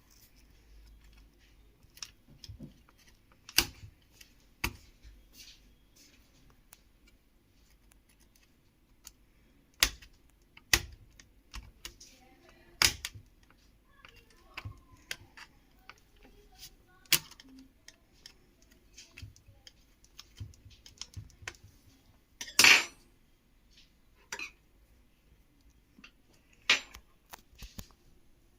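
Irregular clicks and taps from a laptop being handled during repair, spaced a second or more apart, with one louder knock about three-quarters of the way through.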